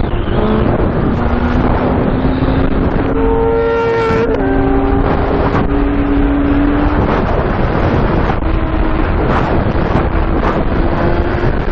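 Motorcycle engine running while riding, its pitch climbing sharply about three seconds in and then settling, with wind rushing across the microphone.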